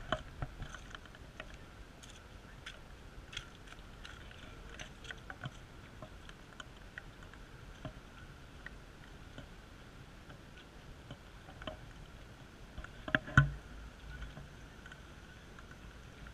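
Light rain: scattered drops tapping irregularly over a faint steady background, with one louder knock about thirteen seconds in.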